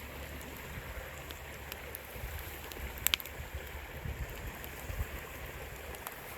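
Steady rush of a mountain river, with a few sharp clicks over it, the loudest about three seconds in.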